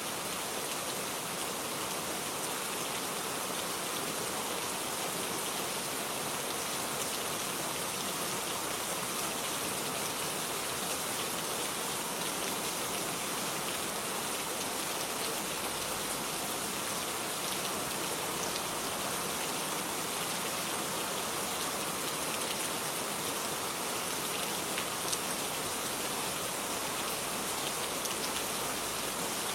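Steady rain falling in a garden, an even hiss with scattered individual drop patters.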